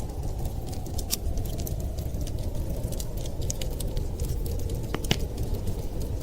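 Wood fire crackling, with frequent irregular sharp pops, over a steady low rumble of wind.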